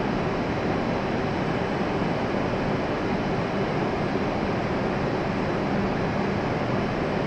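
Steady hum and rush of a stopped W7 series Shinkansen train standing at the platform with its doors open, its onboard equipment and air conditioning running, with a faint low steady tone under the noise.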